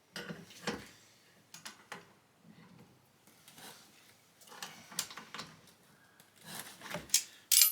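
Scattered light knocks and clicks of objects being handled, with quiet gaps between them and a sharper click near the end.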